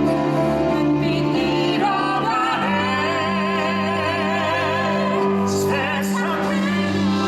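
Musical theatre song with a singing voice over orchestral accompaniment. The voice comes in with a wide vibrato about two seconds in, over sustained low strings and chords.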